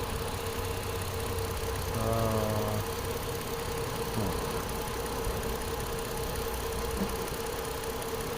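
A steady machine hum with one constant tone running through it, and a brief higher-pitched sound with several tones about two seconds in.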